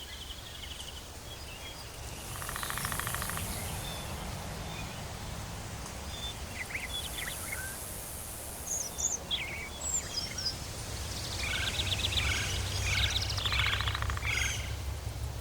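Tropical forest ambience: birds chirping and whistling in short calls, with buzzy insect-like trills about two seconds in and again near the end, over a steady low rumble and hiss.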